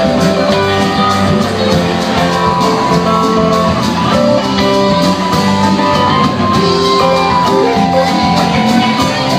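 Live band music: guitar playing over a steady drum beat.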